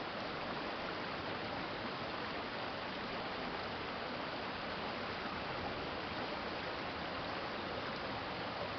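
A shallow stream flowing steadily, a constant even rush of water.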